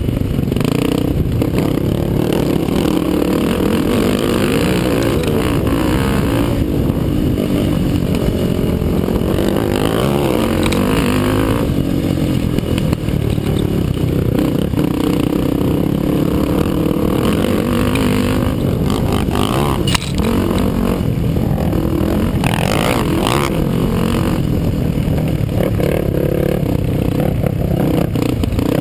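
ATV racing quad engine running hard on a motocross track, revs rising and falling as it accelerates and backs off, with a few sharp knocks.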